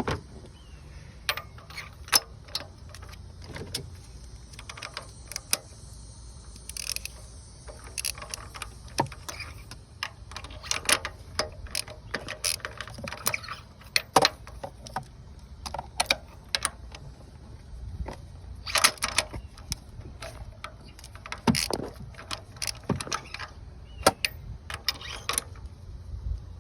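Irregular clicks and clinks of metal hand tools and parts being handled under the hood, over a steady low rumble.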